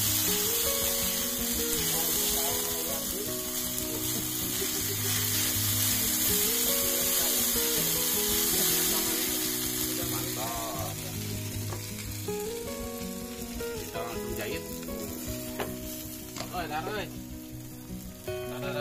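Spaghetti sizzling as it is stir-fried dry with chopsticks in a pan over a portable gas stove. The sizzle fades about halfway through.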